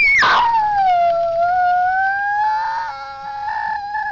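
Dog howling: one long howl that starts high, drops quickly, then holds a steady pitch with a wavering stretch in the middle.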